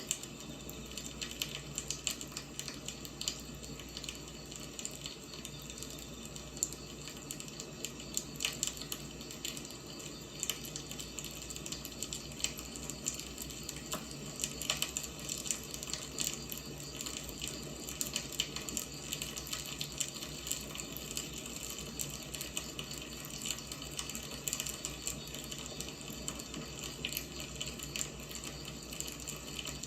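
Firewood burning, a steady hiss with frequent irregular crackles and pops.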